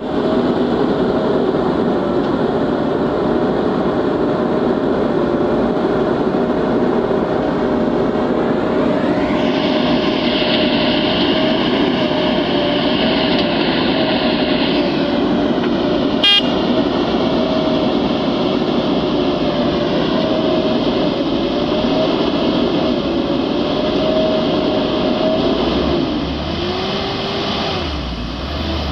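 Heavy diesel machinery engine running under load, revving up about eight seconds in and easing back about fifteen seconds in, with a single sharp click shortly after.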